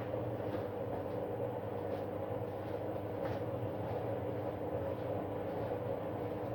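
Arctic washing machine running in service mode with a suds-lock fault: a steady mechanical drone with a low hum and a held whine, with a few faint ticks, the noise taken as a sign of trouble.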